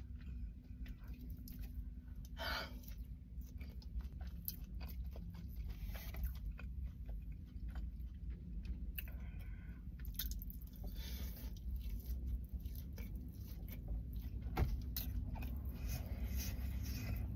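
Close-up chewing of seasoned french fries, with small scattered crunches and clicks, over a steady low hum.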